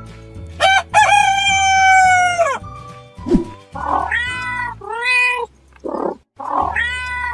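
A rooster crowing once about a second in, followed by a cat meowing several times, over background music.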